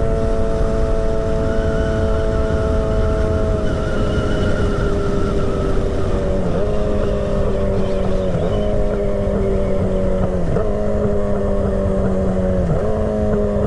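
2008 Yamaha YZF-R6's inline-four engine running at a steady cruise, its pitch sagging slowly. About halfway through the pitch changes, then dips briefly and recovers about every two seconds. Heavy wind rush runs underneath.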